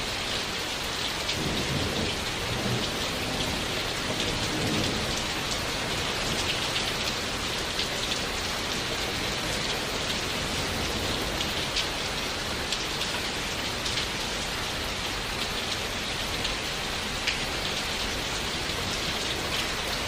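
Steady rain falling, with individual drops ticking on a surface. A low rumble of distant thunder rolls through a second or so in and fades after about four seconds.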